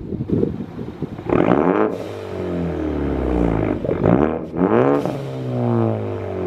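Ford Focus ST engine revved hard through its exhaust: the pitch shoots up about a second in and falls back, then climbs again in two quick blips around four to five seconds in and slides back down toward idle.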